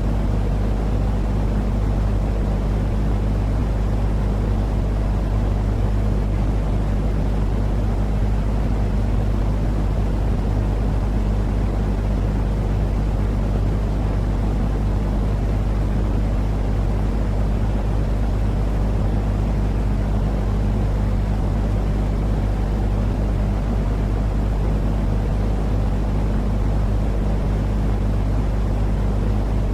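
Steady, unchanging low rumbling noise with a deep hum underneath, the kind of continuous calming noise played to soothe a colicky baby to sleep.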